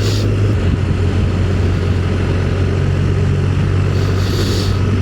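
Motorcycle engine running at a steady cruise, a constant low hum under wind noise, with a brief rush of hiss near the start and again about four seconds in.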